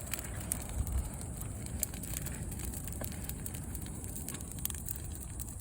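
Large bonfire of felled trees and dry branches burning, crackling with scattered sharp pops over a steady low rumble.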